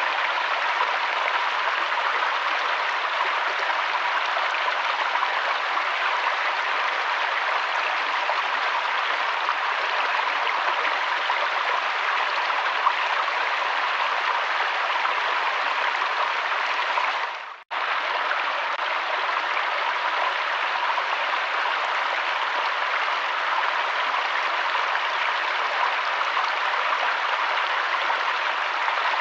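Steady rushing of flowing river water, an even wash of noise with no distinct splashes. About two thirds of the way through it drops out to near silence for a moment, then comes straight back.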